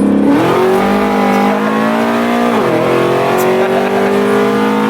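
Straight-piped supercharged 6.2-litre V8 of a 2009 Cadillac CTS-V, running headers to an X-pipe with no mufflers, accelerating hard: the pitch climbs, drops sharply with an upshift about two and a half seconds in, then climbs again.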